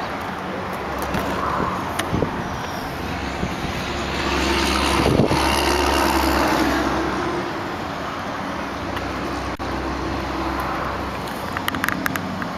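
Steady low hum of an idling car engine. A louder vehicle noise swells about four seconds in and fades by about seven seconds, like traffic passing, and there are a few small clicks near the end.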